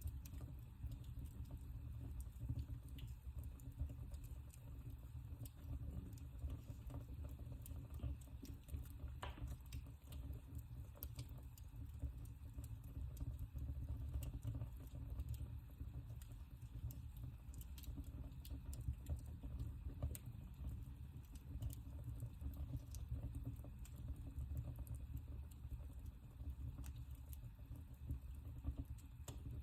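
Wood fire burning in a fireplace: a steady low rumble of the flames with scattered, irregular small crackles and pops.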